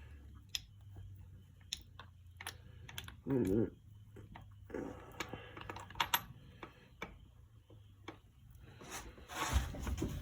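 Light metallic clicks and taps of shift forks and transmission parts being handled and fitted into a motorcycle-type engine case, with a short wavering hum-like sound a little over three seconds in.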